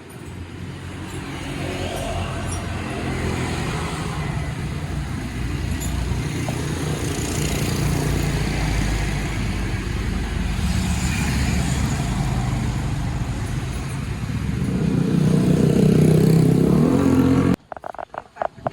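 Honda CB motorcycle being ridden: a steady engine note under a rush of wind and road noise. The engine grows louder for a few seconds near the end, then the sound cuts off abruptly.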